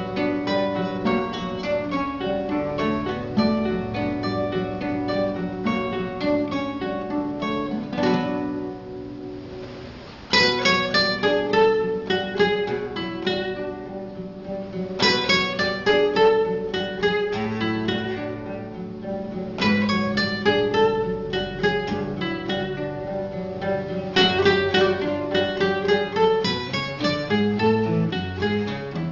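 Acoustic guitar music, an instrumental passage of plucked notes and strummed chords. About eight seconds in a chord is left to ring and fade, then the playing comes back in loudly about two seconds later.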